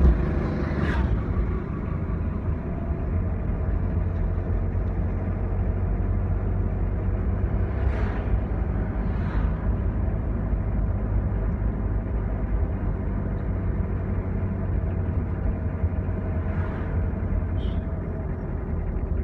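Changan truck driving along: steady engine and road rumble, with a few brief, sharper higher sounds scattered through.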